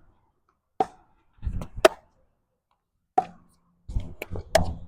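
Pickleball paddles striking the ball in a rally: several sharp pocks roughly a second apart. Bursts of low wind rumble on the microphone come in between.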